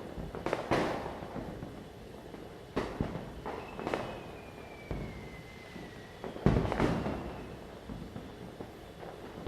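Firecrackers bursting in a series of sharp bangs with echoing tails, the loudest a pair about two-thirds of the way through. In the middle a thin whistle falls slowly in pitch for a few seconds.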